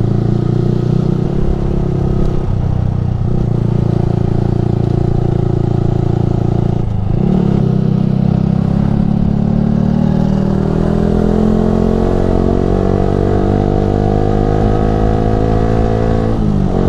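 Yamaha R15 V3's single-cylinder engine through a Ronin Musashi aftermarket exhaust, riding under way: steady running with a short break about seven seconds in, then a long rise in pitch as it accelerates, falling sharply near the end.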